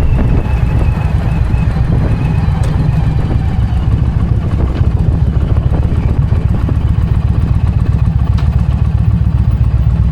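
Indian motorcycle being ridden, its engine running steadily with a deep, even rumble.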